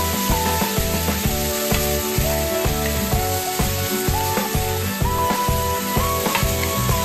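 Pork liver and onions sizzling in a nonstick frying pan while a wooden spatula stirs them, with light clicks of the spatula against the pan. Background music with a melody and a steady beat plays over it.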